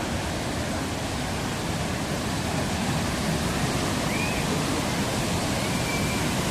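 Muradiye Waterfall pouring, a steady, dense rush of falling water, with a couple of faint short high chirps above it.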